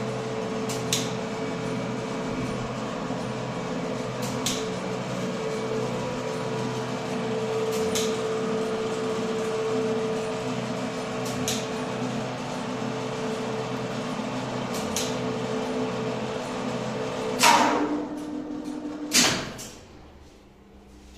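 Soviet elevator winch (LPL-160 with an AS-72 two-speed motor) running with a steady hum, with a relay click about every three and a half seconds, once for each floor passed. Near the end a loud clunk and a falling whine as the motor switches to its low speed to slow the car, then a second loud clunk as the brake sets and the winch stops, leaving a faint hum.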